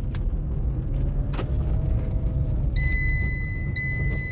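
Tata Tiago cabin noise on a rough road: a steady low rumble with a couple of short knocks, the body rattling the owner points out. About three seconds in, a steady high electronic beep comes on, broken once, like a dashboard warning chime.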